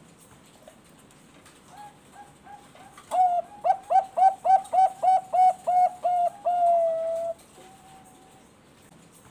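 Zebra dove (Thai-bred perkutut bangkok) singing: a few soft coos, then about three seconds in a loud run of about a dozen quick, staccato coos that ends in one long, drawn-out note.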